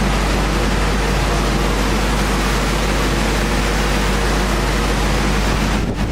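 Industrial woodworking sanding machinery running steadily, a loud even noise over a low hum; near the end it turns uneven and fluttery.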